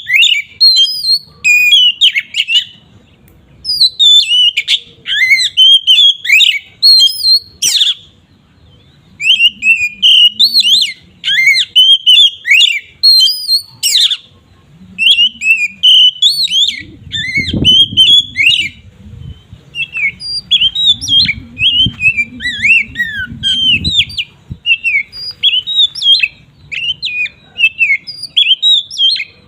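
Oriental magpie-robin (kacer) singing loudly in the 'ngeplong' style: bursts of rapid, varied whistled and chattering phrases broken by short pauses. It is the kind of song used as a lure to rouse other male magpie-robins.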